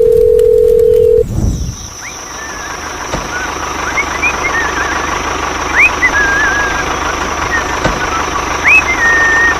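A loud steady electronic tone like a telephone dial tone for a little over a second, cutting off abruptly. It is followed by an outdoor ambience with short high chirps and a faint steady high whine.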